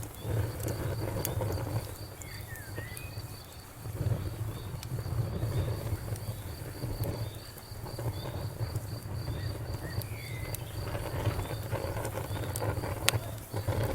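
Fire crackling with a low rumble that swells and dips and a few sharp pops, over a steady, rapid high chirping in the background.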